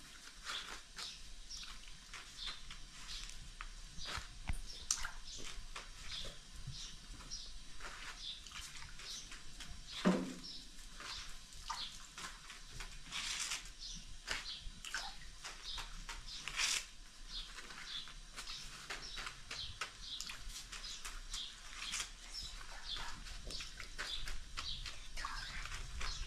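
Small birds chirping in many short, high notes, over the dry rustle and light slaps of thin tiri flatbreads being lifted and stacked. A single falling cry stands out about ten seconds in.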